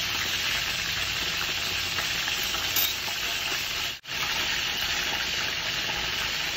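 Pot of tom yam instant-noodle soup with vegetables and rice cakes cooking on the stove, a steady hiss that breaks off for a moment about four seconds in.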